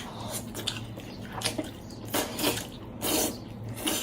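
A person chewing roast lamb leg, with wet smacks and bites at irregular intervals, a few a second.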